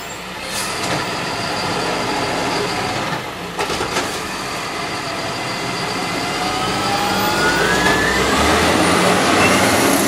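Garbage truck engine running steadily, with a few sharp knocks about three and a half to four seconds in. In the last few seconds a whine rises steadily in pitch.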